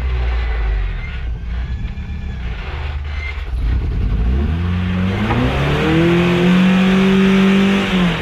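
Off-road pickup truck engine revving up about four and a half seconds in and holding high revs under load for a couple of seconds, with a rushing noise alongside, then dropping off sharply at the end.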